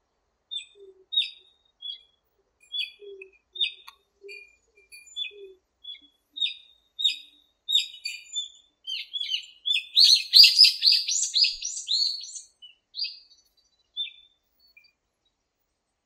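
Birds chirping: short, high, repeated chirps all through, thickening about ten seconds in into a loud, rapid run of notes that dies back to scattered chirps a couple of seconds later.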